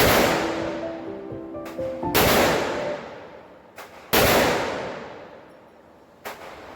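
Desert Eagle .50 AE pistol shots: three loud shots about two seconds apart, each trailing off in a long echo, with fainter shots between them and one near the end. Background music plays under the first two shots.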